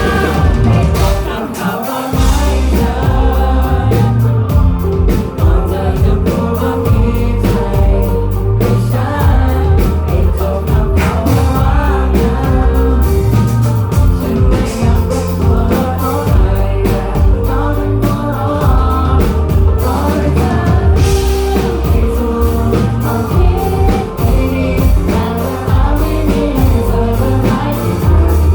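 Live pop-rock band playing a song, with drums, guitars and a lead vocal; at times many voices seem to be singing along.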